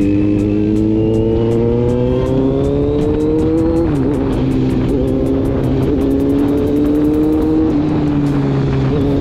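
Kawasaki Z900 inline-four with an aftermarket slip-on exhaust can, loud under acceleration: the engine note climbs steadily, drops at an upshift about four seconds in, climbs again and drops at a second shift near the end. Wind noise on the microphone runs underneath.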